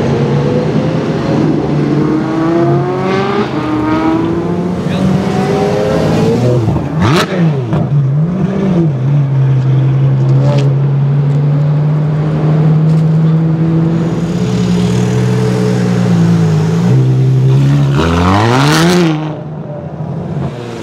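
Ferrari F12's V12 through an Armytrix aftermarket exhaust, revving. The pitch climbs over the first several seconds and a sharp crack comes about seven seconds in. After a short blip it holds a long steady note, then gives a quick rev that rises and falls with another crack near the end.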